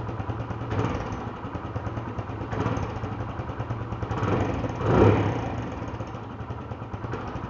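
Motorcycle engine idling through a stock exhaust with a washer fitted in its outlet to change the exhaust note. The throttle is blipped three times, the last and loudest about five seconds in.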